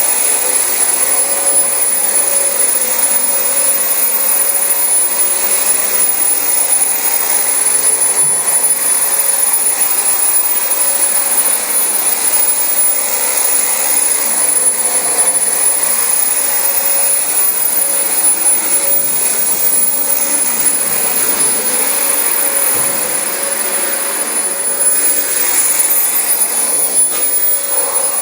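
Dyson DC25 bagless upright vacuum cleaner running steadily as it is pushed over thick carpet: a loud rush of air with a steady high-pitched whine from the motor.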